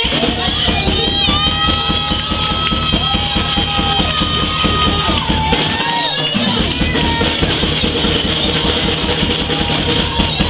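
Live praise music: a drum kit keeps a fast, steady beat under a band, with long held notes above it.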